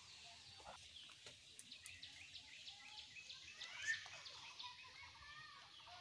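Faint bird chirps, many short calls one after another, over low background noise, with one a little louder about four seconds in.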